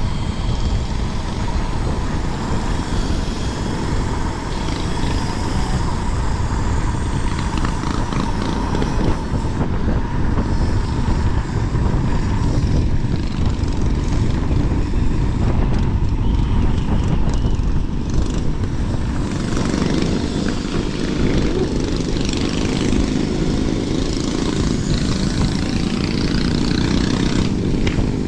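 Wind buffeting the microphone and road noise from riding at speed on an electric scooter, with a faint steady whine through roughly the first half.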